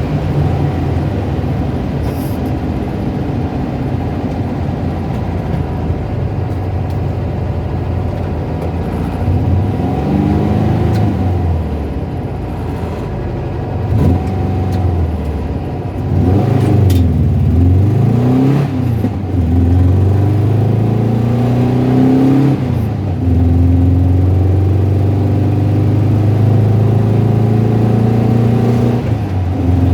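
Car engine running with a rattling, tapping noise that is heard at lower revs; the revs rise and fall several times through the middle, then hold steady.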